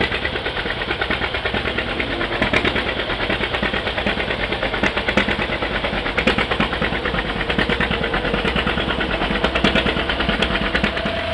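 Vintage tractor engine running close by, a steady fast beat of firing strokes over a low rumble.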